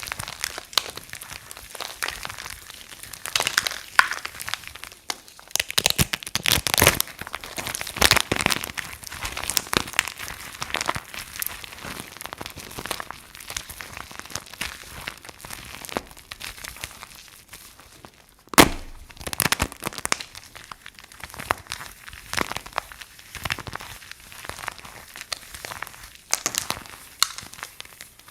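Dry soap crunching and crackling as it is broken up, a dense run of crisp cracks, with one sharp, loud snap about two-thirds of the way through.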